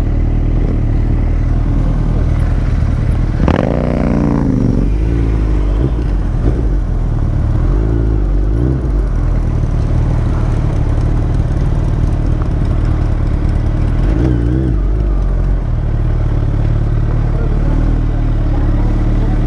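A motorcycle engine idling steadily, with a few brief rising and falling engine notes about four, eight and fourteen seconds in.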